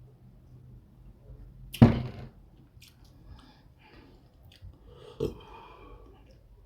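Close-miked eating of fufu with soup: one loud wet smack about two seconds in, a smaller one near the end, and small mouth clicks between.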